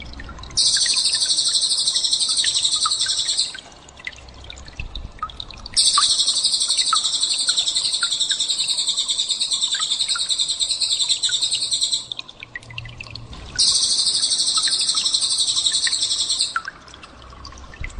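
Recorded small songbird song: three long, very high, rapid trills of several seconds each, separated by short scattered chirps, with a faint low hum underneath.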